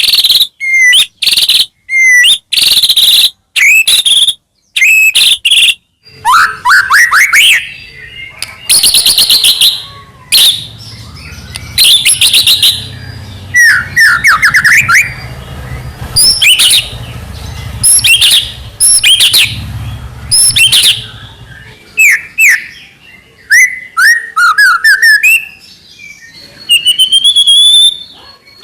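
White-rumped shama (murai batu) singing a loud song of rapid, varied whistled phrases, sweeps and chatters, broken by short pauses. A faint low hum runs underneath through the middle part.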